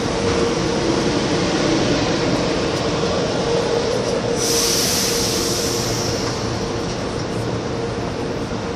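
Metro-North M8 electric multiple-unit cars standing at the platform, their onboard equipment giving a steady hum with a held whining tone. About four and a half seconds in, a loud hiss sounds for a second and a half.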